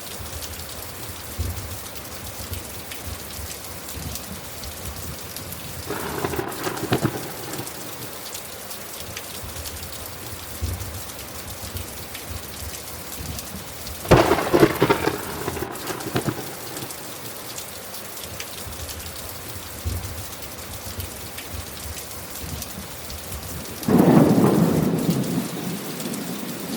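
Steady rain with thunder rolling three times, about six, fourteen and twenty-four seconds in. The last two claps are the loudest, and the final one is the longest.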